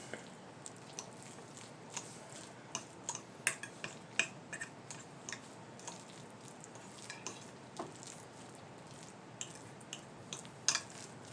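Cutlery clinking and scraping against dishes in scattered light clicks, as food is stirred in a dish and eaten.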